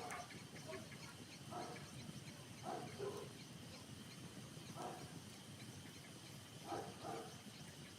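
A dog barking repeatedly: short single barks and pairs of barks, a second or two apart, over a steady low hiss.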